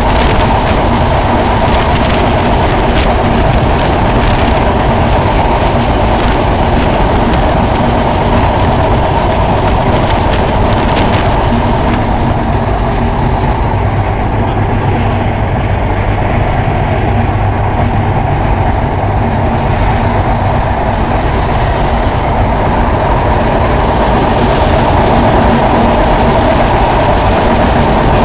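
Sundarban Express passenger coach running at speed, heard from its open window: a steady, loud rumble of wheels on the rails. It eases a little in the middle and grows louder again near the end.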